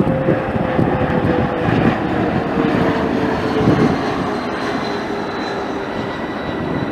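Jet airliner passing close by, its engines making a steady roar with a whine that slides slowly down in pitch. Wind is buffeting the microphone.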